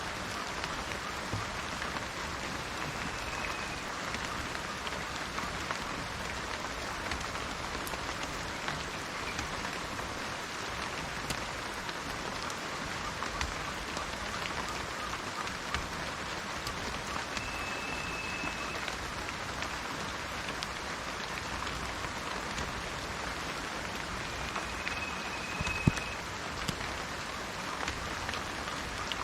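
Steady rain falling on garden plants and trees, a dense even hiss full of fine drop ticks. One sharp knock stands out near the end.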